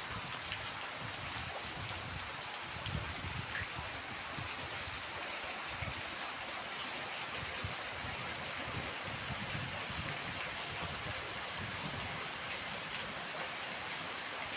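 Heavy rain pouring down, a steady even hiss of rainfall.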